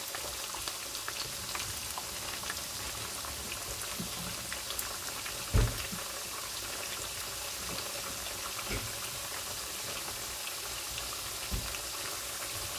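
Green banana sticks frying in hot oil in a pan: a steady sizzle. Three short dull knocks come as a fork turns the pieces, the loudest about halfway through.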